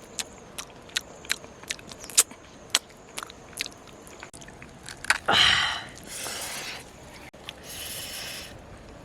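A person chewing food up close, with many small sharp crunchy clicks for about four seconds. About five seconds in comes a loud rushing sound, followed by two softer hissing stretches.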